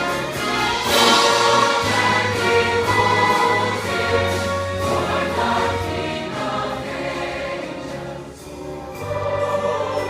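A choir singing with orchestral accompaniment, live, in sustained chords with a short dip in volume near the end.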